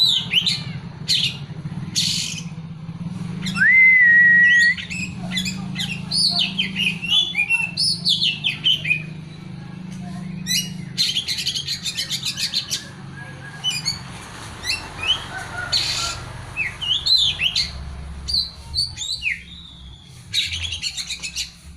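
Oriental magpie-robin (kacer) singing a varied song of whistles and chirps, packed with learned mimicked phrases. It includes a loud rising whistle held steady about four seconds in and fast rattling trills around the middle and again near the end.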